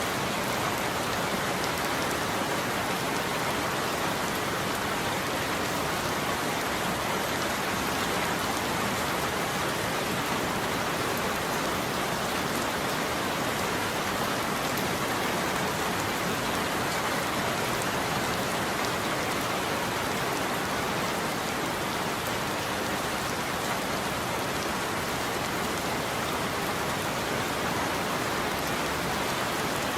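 Steady, heavy rain falling on a roof, an even dense patter with no thunder.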